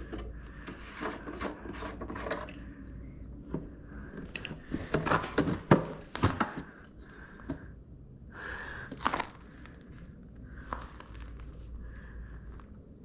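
Clicks, knocks and scraping of hands and a container handling a lawn mower's disconnected fuel line, busiest about five to six seconds in.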